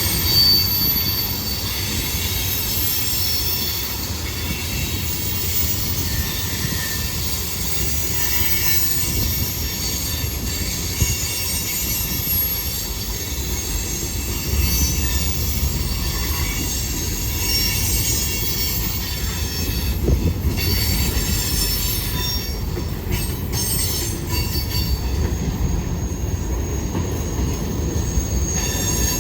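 CSX freight train cars rolling past with steel wheels squealing against the rail as a continuous high-pitched whine over a steady low rumble, with occasional clicks from the wheels on the track.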